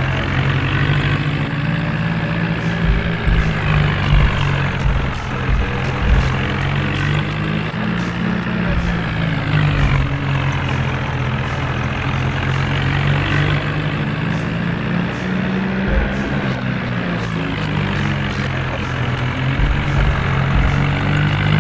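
Diesel tractor engine running steadily and loudly, its pitch rising and easing slightly as the throttle and load shift.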